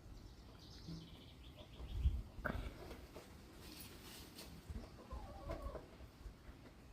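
Chickens clucking faintly in short calls, with a low thump about two seconds in.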